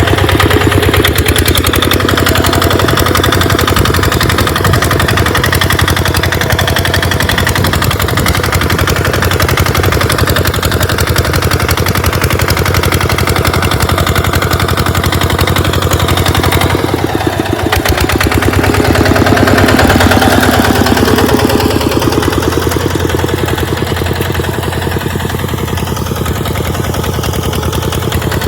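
Tractor engine running steadily while plowing sand, with a rapid even firing beat; it dips briefly about 17 seconds in, then swells louder around 20 seconds.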